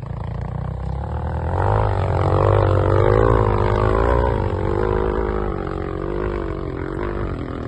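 Enduro motorcycle engine revving hard under load, its pitch rising and falling. It is loudest a couple of seconds in, then eases off.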